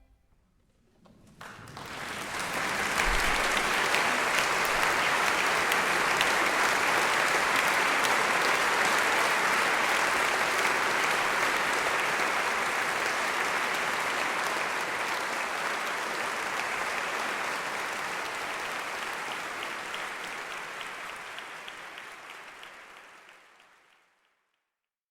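Concert audience applauding at the end of a live string quartet performance. The applause starts about a second and a half in after a moment of near silence, holds steady, then dies away near the end.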